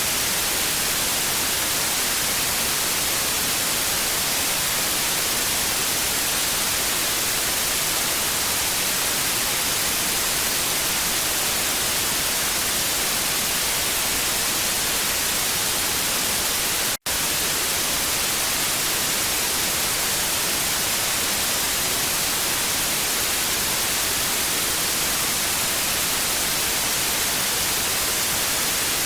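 Television static: a steady, even hiss, strongest in the high end, that cuts out for an instant about seventeen seconds in.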